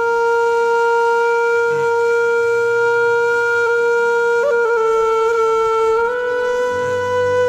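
One long held note on a wind instrument, steady in pitch, with a brief waver about four and a half seconds in and a slight rise in pitch around six seconds.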